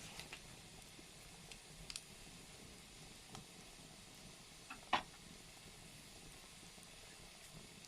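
Wood fire crackling faintly in a fireplace: a soft steady hiss with scattered sharp pops, the loudest a little before the five-second mark.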